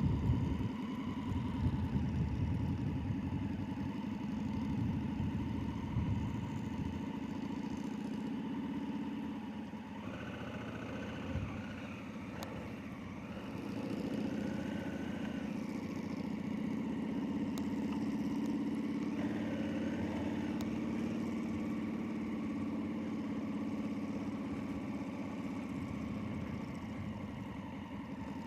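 Motorcycle engine running steadily under way, its note shifting slightly a few times.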